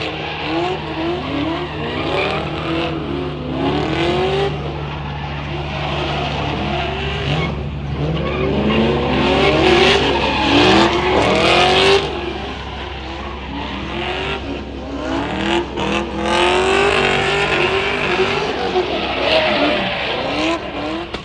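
Car engines revving hard, pitch climbing and falling over and over, with tires squealing as cars spin donuts in a pit. The noise eases somewhat about halfway through, then builds again.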